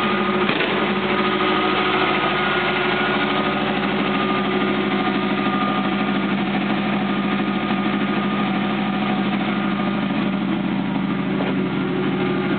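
1979 Hurst/Olds's Oldsmobile 350 V8 idling steadily while it warms up after a cold start.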